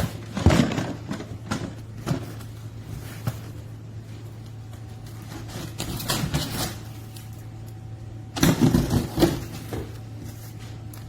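A package being handled, with bursts of rustling, scraping and knocks near the start, about six seconds in, and again around eight and a half to nine and a half seconds. A steady low hum runs underneath throughout.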